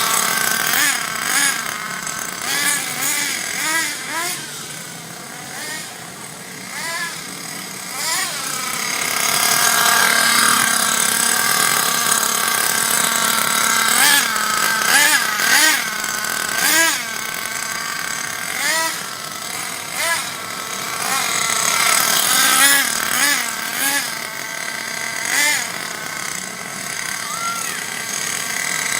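Thunder Tiger S28 nitro engine of an RC short-course truck running through its break-in, revving up and dropping back over and over in short bursts, with a longer held run in the middle.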